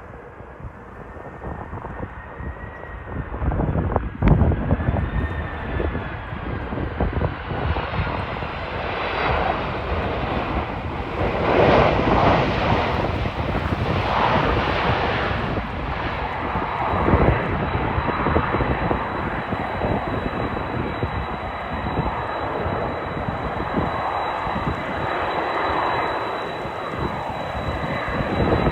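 Boeing 767-300ER airliner's twin turbofan engines, getting louder as the jet comes in to land, loudest about halfway through, then running on with a steady high whine. Gusty wind rumbles on the microphone underneath.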